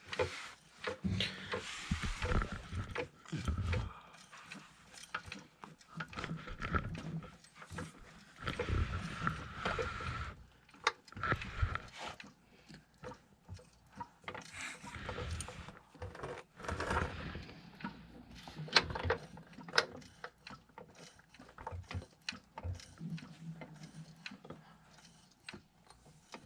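A jack being pumped up under a transmission pan, taking the transmission's weight: a run of uneven strokes with creaking, followed by sharp mechanical clicks.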